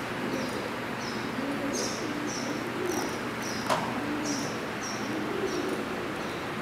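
Birds calling: short high chirps repeating about twice a second over lower, arching coo-like notes, against a steady background noise.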